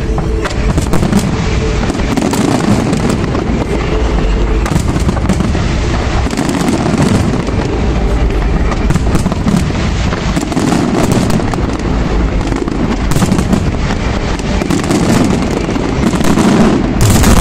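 Fireworks display going off without a break: a dense stream of booming bursts and crackling, with a louder cluster of bursts near the end.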